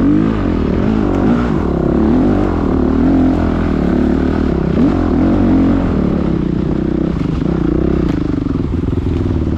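Several motocross motorcycle engines revving. Their pitch rises and falls as the bikes accelerate and shift, the sounds overlapping.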